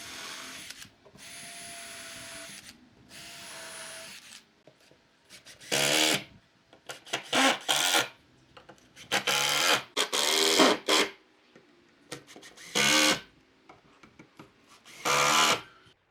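Power drill running in short bursts: three even runs in the first four seconds, then about five louder, uneven bursts that start and stop abruptly.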